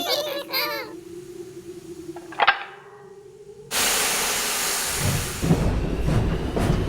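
A single clank, then about a second later a sudden loud burst of steam hiss that fades. It gives way to a steam engine and its trucks getting under way: a low rumble with repeated clatter of wheels on rails.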